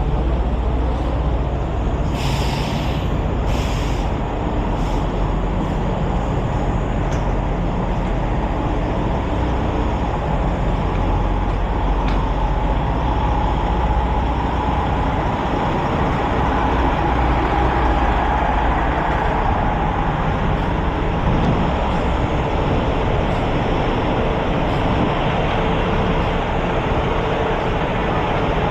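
Steady rumble of trucks and road traffic, with two short air-brake hisses about two and four seconds in.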